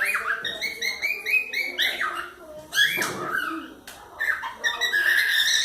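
Pet cockatiels calling: a quick run of short chirps that slide in pitch, with one longer held call near the end.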